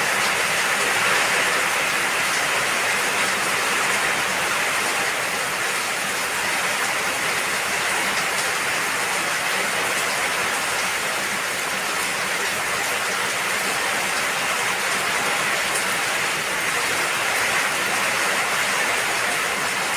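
Steady rain falling: an even hiss with faint scattered ticks of single drops.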